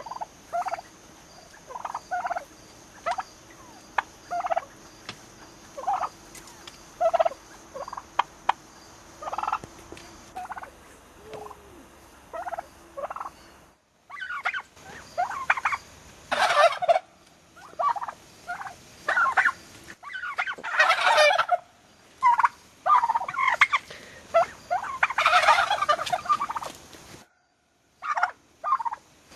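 Young domestic turkeys, about six months old, calling: short calls about once a second at first. After a break comes a denser, louder run of overlapping calls with several longer bursts.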